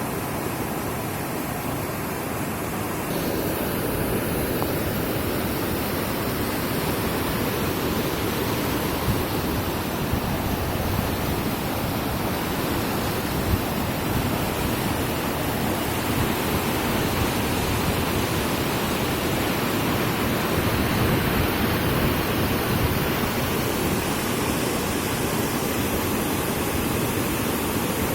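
Steady rush of flowing water, unbroken throughout, a little louder and brighter about three seconds in.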